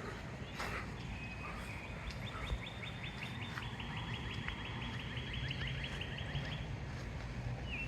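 A bird singing a long, fast trill of repeated short down-slurred notes, about eight to ten a second, starting about a second in and stopping near the end, with a few separate chirps after. Low wind noise runs underneath.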